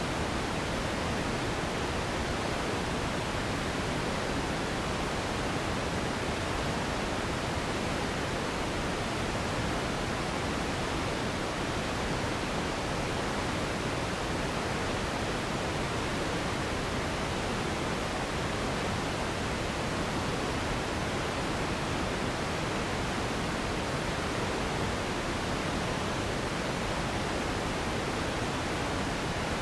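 Steady relaxing noise of the pink-noise kind: an even, unbroken rushing hiss, fuller in the low and middle range than in the highs, with no changes.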